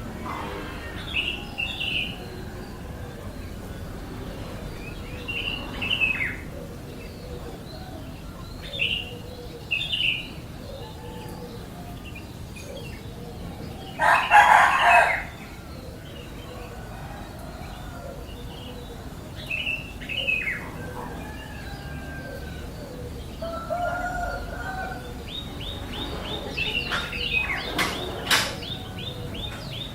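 Birds calling: short high chirps every few seconds, a loud rustling burst about halfway through, and a fast run of repeated high peeps near the end.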